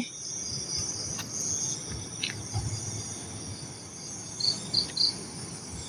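Crickets and other night insects chirring steadily, with a few short chirps near the end and faint scattered clicks.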